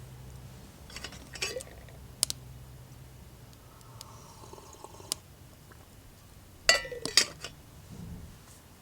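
Metal camp tableware being handled: a few sharp clinks, with the loudest pair of clinks about seven seconds in.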